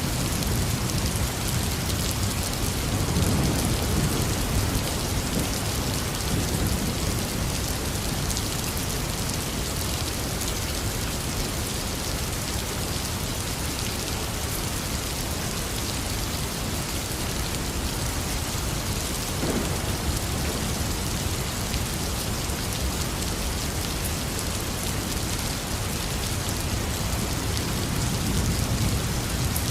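Heavy rain falling steadily, with low rumbles of thunder swelling about three seconds in and again near the end.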